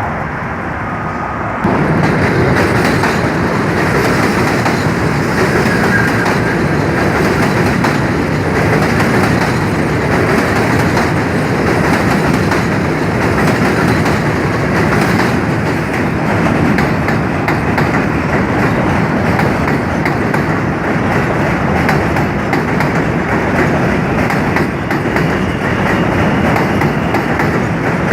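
New York City subway train running past on the Williamsburg Bridge tracks: a loud, steady rumble with a fast clatter of wheels over rail joints, setting in abruptly about two seconds in.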